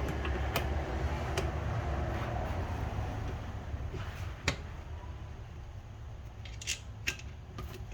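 A few sharp metal clicks and taps as transmission parts are handled and worked into place, the loudest about halfway through, over a steady low hum.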